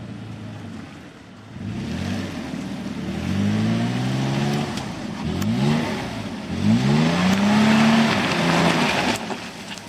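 Off-road 4x4's engine revving repeatedly while it drives through a shallow river crossing, its pitch climbing several times. A rushing noise of water and tyres swells with it, loudest in the second half, then eases off near the end.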